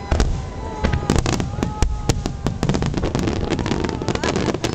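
Aerial fireworks bursting in quick succession: sharp bangs, with whistling tones in the first half and a dense run of rapid crackling in the second half.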